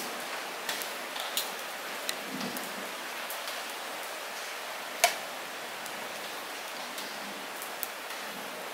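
Light rain falling steadily, with scattered single drops ticking close by; one drop about five seconds in is the loudest.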